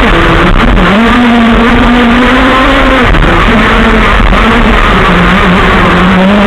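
Modified Zenoah two-stroke petrol engine of a large-scale RC car running loudly at high revs. The revs hold steady for stretches and dip briefly a few times as the throttle is eased and opened again.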